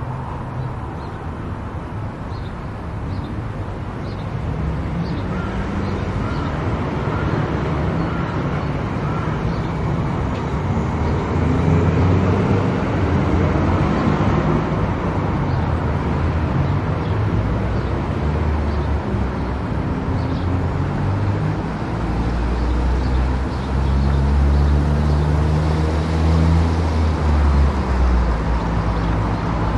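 Car driving on an expressway: steady road and tyre noise with a low engine and road rumble that grows louder in the second half.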